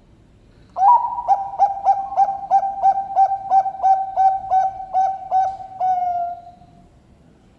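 Zebra dove (perkutut Bangkok song strain) cooing: a quick series of about fifteen short notes, roughly three a second, ending in one longer drawn-out note that falls slightly in pitch.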